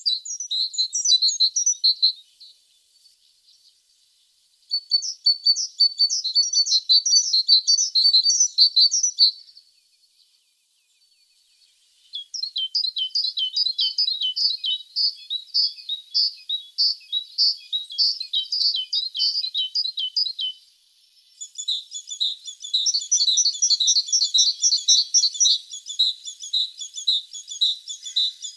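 A tit singing: fast trills of repeated high notes in four long phrases, with short pauses between them.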